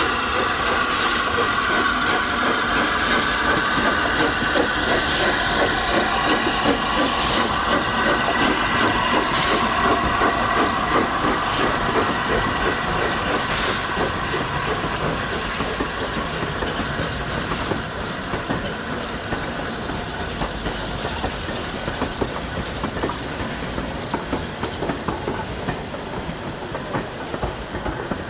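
Steam-hauled train running past: a steady rush of wheels and rapid clatter, with sharp clicks every couple of seconds in the first half, fading gradually over the second half as it moves away.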